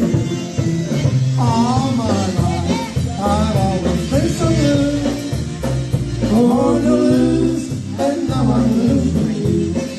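Live band music: a singing lead melody over a steady, pulsing bass line.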